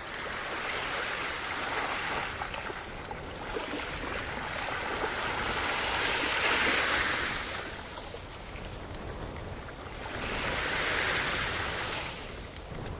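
Sea waves breaking and washing up on a shore, swelling and ebbing in three surges about four to five seconds apart, the loudest about six to seven seconds in.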